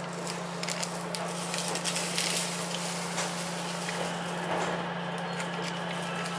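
Electric train running, heard from inside the car: a steady hum with irregular clicks and clatter from the wheels over the track, thickest in the first half.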